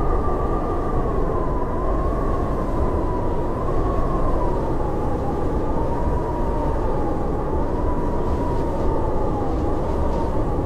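Howling blizzard wind: a steady low rush with a thin whistling tone that wavers up and down and drifts slowly lower.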